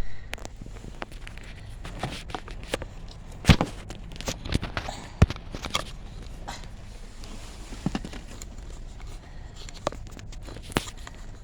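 Irregular knocks, taps and clicks of a camera being handled and pressed onto a makeshift dashboard mount, close to the microphone.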